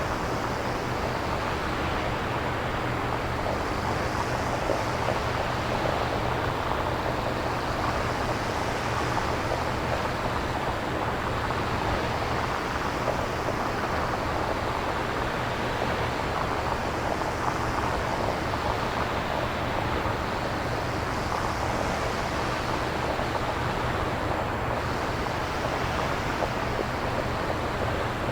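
Synthesized nature-sound ambience: a steady rushing noise with slow, gentle swells every few seconds over a constant low rumble.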